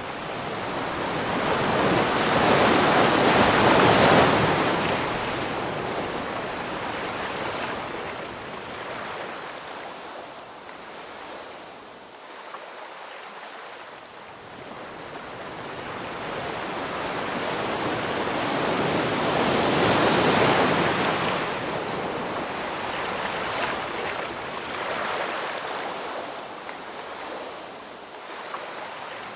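Ocean waves breaking and washing up on the shore. Two large swells crest about four seconds in and again about twenty seconds in, with quieter wash and hiss between them.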